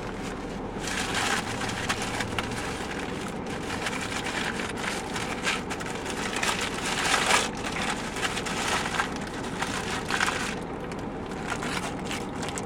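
Paper food wrapping crinkling and rustling in irregular bursts as it is handled, over a low steady hum.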